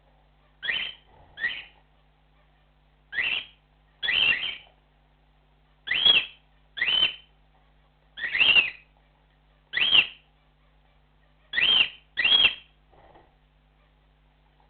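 Cockatiel giving its flock call: about ten short, loud, high whistled calls, each rising then falling in pitch, often in pairs, one to two seconds apart.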